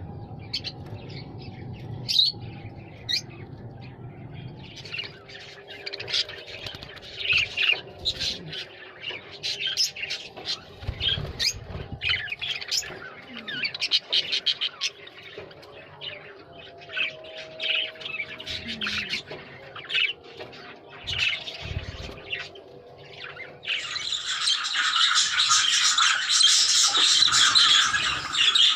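Parrots calling in many short, sharp calls; near the end the calls merge into a louder, continuous mass of many birds calling at once.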